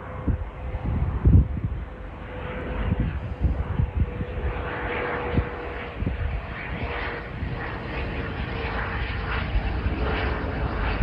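Jet airliner engines running as the aircraft moves past, a steady rushing noise with a held whine that drops slightly in pitch near the end. Irregular low thumps of wind buffet the microphone.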